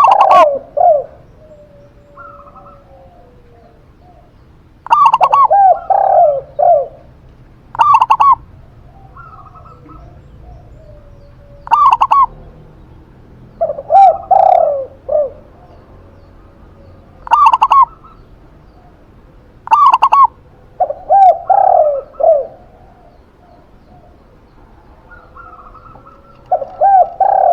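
Zebra dove and spotted dove cooing in turn. Short, higher coos alternate with longer runs of lower, rolling notes, a phrase every two to three seconds with brief pauses between.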